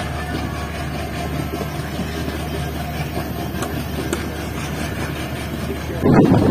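Express passenger train running, heard from an open coach door: a steady low rumble and hum. About six seconds in, a sudden loud rush of wind buffets the microphone.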